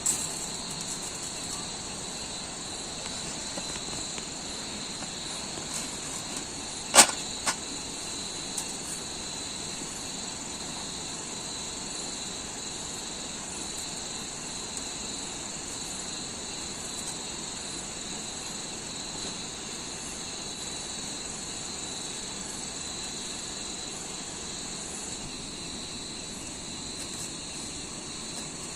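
A steady, high insect chorus, like crickets chirping, over an even background hiss. A sharp knock about seven seconds in, with a smaller one just after.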